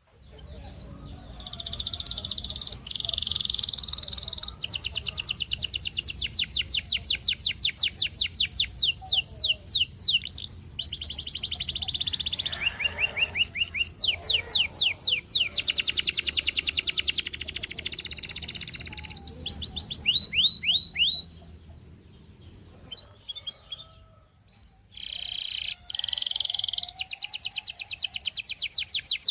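A canary singing: long, fast trills of quickly repeated sweeping notes, switching from one roll to another, with a short break about three quarters of the way through.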